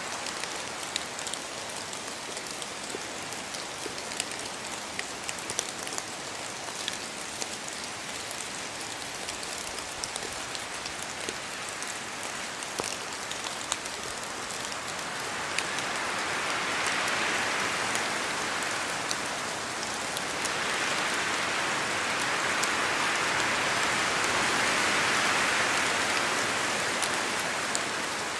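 Steady rain in a forest, with many separate drops ticking onto leaves. In the second half the rushing grows louder in two long swells, as gusts of wind move through the trees.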